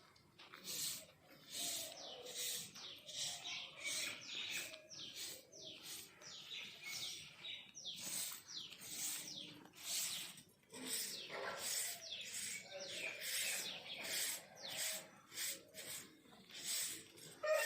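Birds chirping: a steady run of short, high chirps that slide downward in pitch, a few every second.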